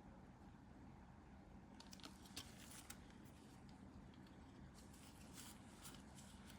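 Near silence with a low hum, broken by two short runs of faint, light clicks and taps, such as small plastic kit parts being handled.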